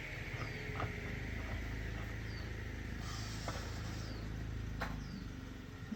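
A steady low mechanical rumble, like a motor running, with scattered clicks and a few short high chirps on top; the rumble drops away about five seconds in.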